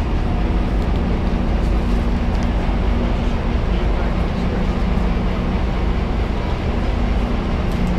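Steady low rumble and hum of an Amtrak train standing at the platform.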